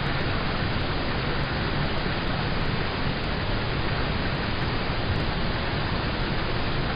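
Steady rain falling on a car, heard from inside the cabin: an even hiss of rain with a low, uneven rumble of drops on the body.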